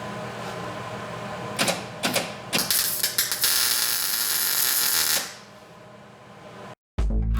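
Welding arc plug-welding a sheet-steel firewall into a truck cab: a few short crackling bursts, then a longer crackling weld of about two and a half seconds, over a steady shop hum.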